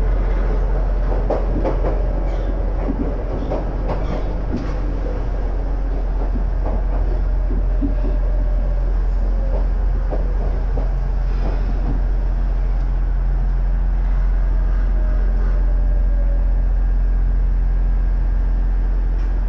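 Inside a former Tokyu electric railcar on the Iga Railway, running steadily with a constant low hum. For the first few seconds there are clattering clacks of the wheels over rail joints, and after that it runs more smoothly.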